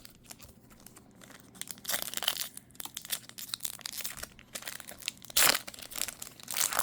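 Foil Yu-Gi-Oh booster pack being torn open and crinkled in the hands: irregular crackling and tearing, loudest about five and a half seconds in.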